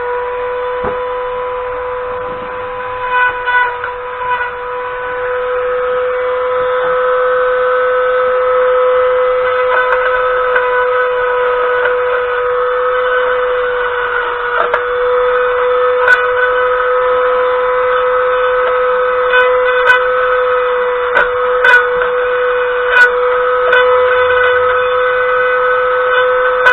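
Small high-speed rotary power tool running with a steady high whine while derusting a steel steering rack, with scattered sharp ticks in the second half as it catches on the metal.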